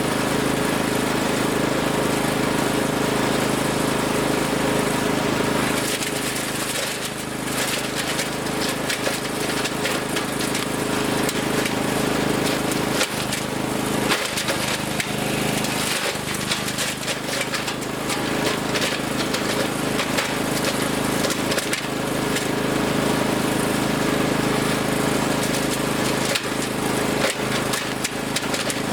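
Wood chipper's engine running steadily under load while branches are fed in. From about six seconds in it is joined by a stream of irregular cracks and snaps as the wood is chipped.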